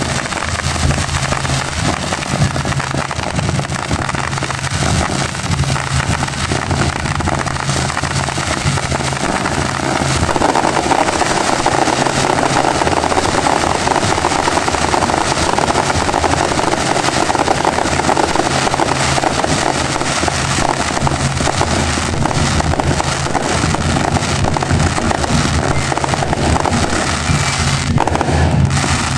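A dense barrage of aerial fireworks: many bursts and crackling stars popping over one another into a continuous din, getting a little louder about ten seconds in.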